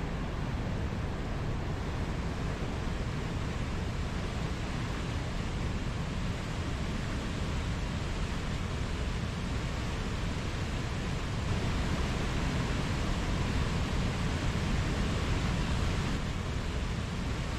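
Mountain stream flowing: a steady rush of water that swells slightly a little past the middle before settling back.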